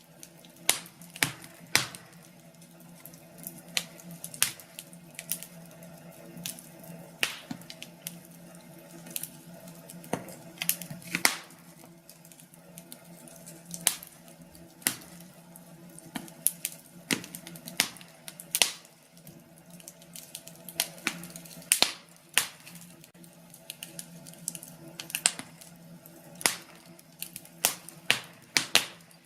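Wood fire burning in a fireplace, crackling with irregular sharp pops a few times a second over a low steady hum.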